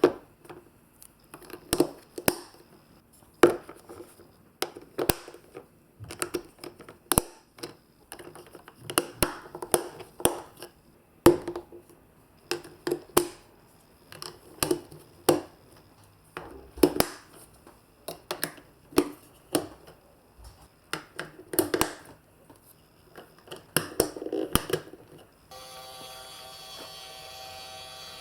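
Glass marbles rolling through a plastic building-block and magnet marble run, clicking and clacking irregularly as they drop and knock against the pieces. Music comes in near the end.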